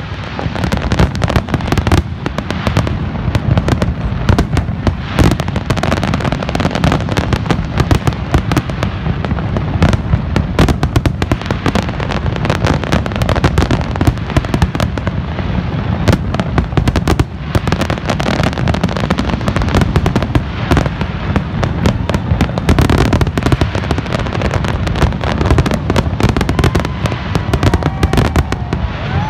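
Aerial firework shells bursting in a dense, continuous barrage: overlapping bangs with deep low booms, hardly a gap between them.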